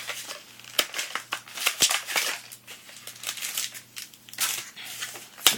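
Emptied plastic blister packaging and card-pack wrappers being crumpled and handled: irregular crinkling and crackling, with a few sharp clicks.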